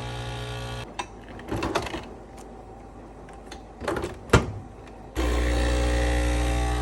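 A small electric motor running with a steady hum, switching off about a second in. A few seconds of clicks and knocks follow, and then it starts up again.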